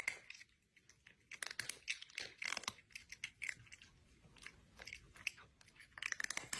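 Crunchy chewing: a run of irregular crisp bites and crunches, stopping suddenly at the end.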